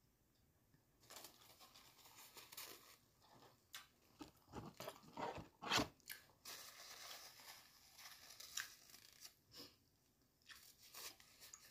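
Close-up chewing of crispy fried chicken: irregular crunching crackles, starting about a second in and loudest around six seconds in.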